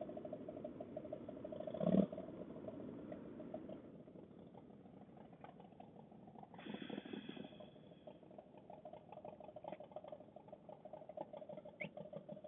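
Motorcycle engine running with a fast, rattly pulse. A sharp thump about two seconds in is the loudest sound, and a short pitched sound comes in around seven seconds.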